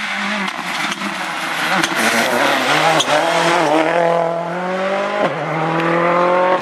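Rally car engine under hard acceleration, its note climbing through a gear, dropping sharply at an upshift about five seconds in, then climbing again.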